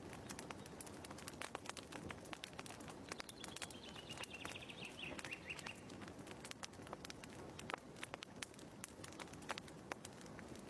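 Wood fire crackling in a fireplace: irregular sharp pops and clicks over a low hiss. A bird gives a short falling call about three seconds in.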